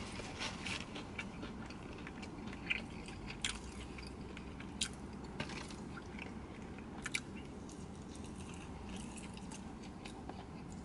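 A person chewing and biting food up close, with quiet mouth sounds and scattered small sharp clicks.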